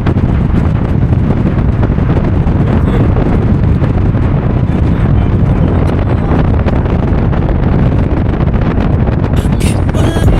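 Wind buffeting the microphone: a loud, steady rumbling roar. Music comes in near the end.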